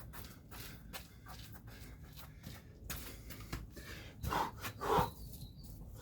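A man gasping and breathing hard while exhausted mid-way through a set of burpees and jump squats. Two loud breaths come about four and five seconds in, over faint scattered taps.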